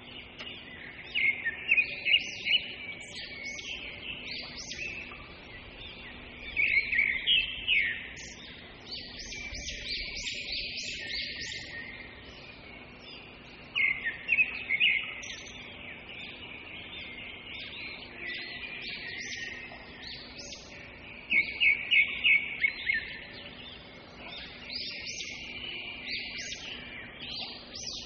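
Birds chirping outdoors: quick runs of repeated high notes come in several separate bursts over a steady high-pitched background chorus.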